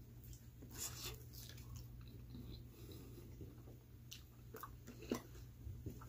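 A person chewing a bite of pepperoni pizza close to the microphone: soft crunches and wet mouth clicks, with a sharper click about five seconds in, over a faint steady low hum.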